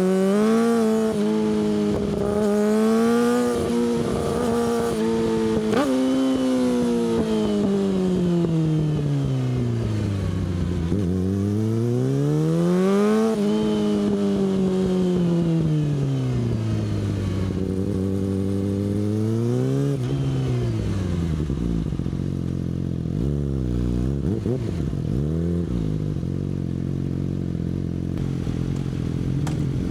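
Yamaha R6 inline-four engine through an Akrapovic exhaust, its revs rising and falling several times as the bike is ridden. For the last third it settles to a steady low note.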